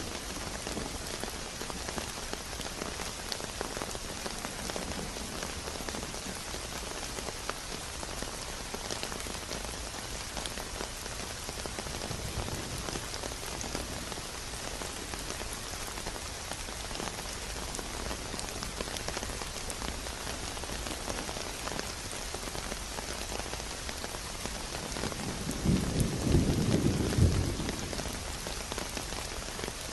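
Steady rain falling, an even hiss of many drops with fine individual patters. About three-quarters of the way through, a louder low rumble swells for about two seconds and fades.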